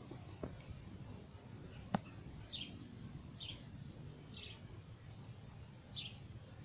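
A bird chirping: four short, high single chirps spaced about a second apart, with a single sharp click just before the first chirp.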